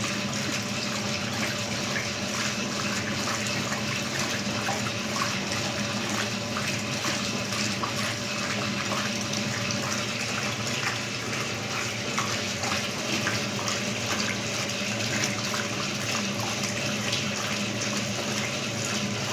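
Brastemp electronic washing machine running water steadily, a continuous rush with a low steady hum underneath, typical of the tub filling with water.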